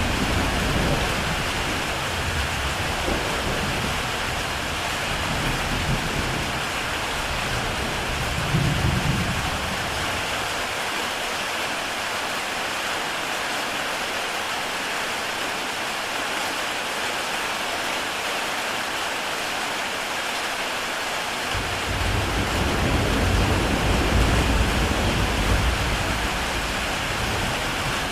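Heavy rain falling steadily on a tile roof, with low rolls of thunder in the first several seconds and again about three-quarters of the way through.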